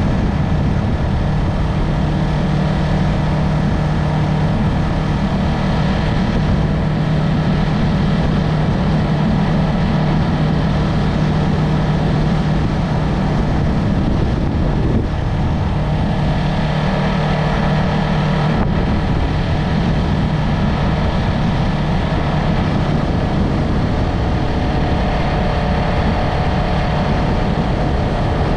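Yamaha MT-03 motorcycle engine and exhaust running steadily while riding, heard from the bike. The engine note changes pitch a little past halfway.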